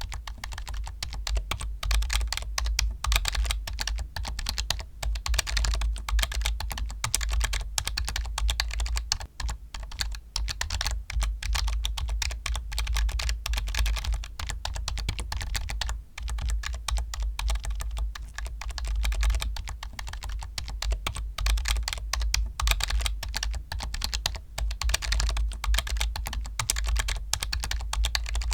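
Computer keyboard typed fast and without a break, a dense stream of key clicks.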